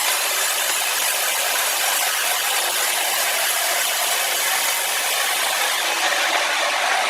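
A power saw cutting through a large log in a steady, continuous cut, a harsh even noise with little bass.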